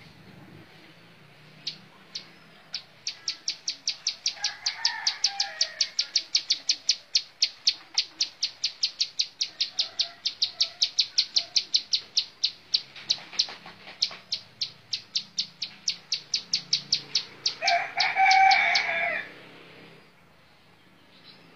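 Ciblek sawah (plain prinia) singing a long, fast run of sharp, high, clipped notes, about five a second. Near the end, a louder, lower call from another bird overlaps the run.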